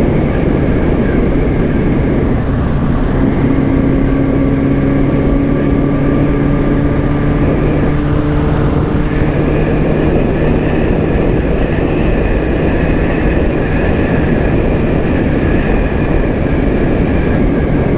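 Sport motorcycle engine running at a steady cruise under heavy wind rush on the rider's microphone, its pitch drifting slightly and shifting about eight seconds in.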